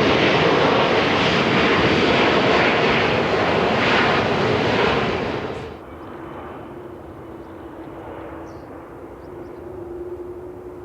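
Jet airliner engines close by, loud and full, cutting off abruptly a little past halfway; after that, quieter jet noise with a faint steady whine.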